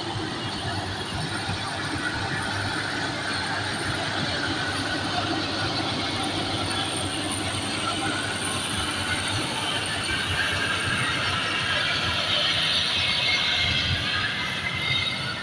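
Combine harvester running in a rice paddy: a steady mechanical rattle and running noise from the machine as it cuts the rice, growing a little louder near the end.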